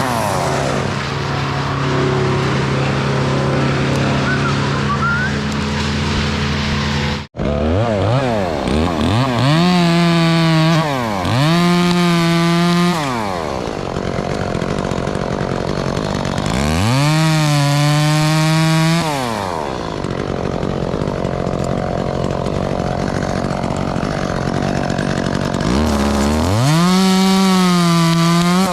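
Chainsaw engine running steadily at low speed, then revved up to full throttle four times, each burst held for a second or two before dropping back. The sound cuts out for an instant about seven seconds in.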